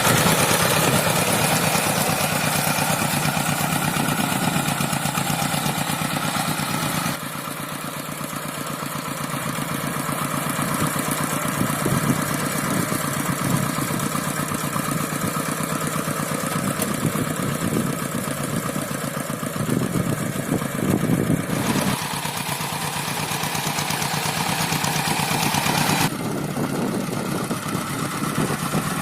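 Single-cylinder diesel engine of a two-wheel hand tractor running with a fast, steady chug. Its sound changes abruptly about a third of the way in and twice more near the end.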